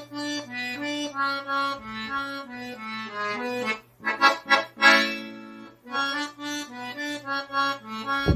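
Piano accordion playing a slow melody of single notes that step up and down over a steady bass, with a few fuller chords around the middle.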